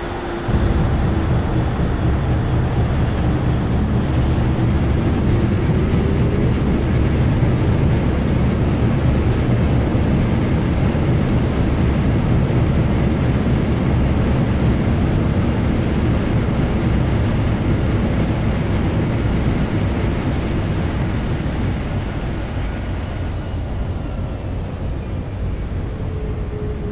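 Boeing 767-300 touching down, heard inside the cabin. About half a second in, the noise jumps to a loud, steady rumble of the wheels on the runway and the engines at reverse thrust, with an engine tone that dips and then rises. The rumble eases off over the last few seconds as the aircraft slows on the rollout.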